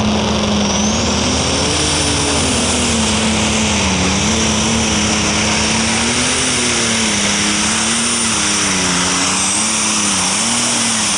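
Alcohol-burning super stock pulling tractor making its run under load, its engine running loud and hard with the pitch wavering up and down as it pulls. A high whine rises about a second in and holds.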